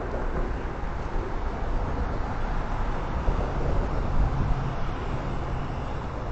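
Norfolk Southern local freight train running, a steady low rumble with a faint engine hum.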